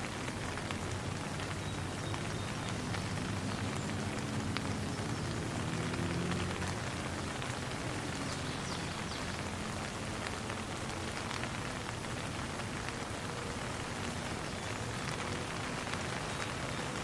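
Steady rain falling, a dense even patter with scattered individual drops ticking through it. A faint low rumble swells briefly a few seconds in.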